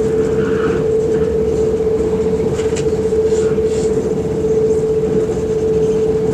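Inside a moving electric passenger train: the steady rumble of the carriage running along the rails, with a constant single-pitched hum throughout and a few faint high ticks about halfway through.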